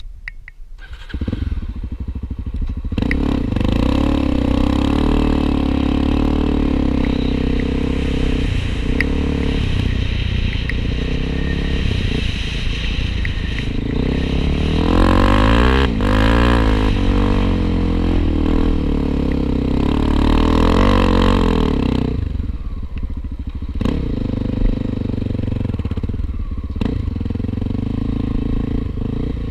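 Honda XR250 Tornado trail bike's single-cylinder four-stroke engine starting about a second in and running, revved up and down a couple of times in the middle, then settling back to a lower idle.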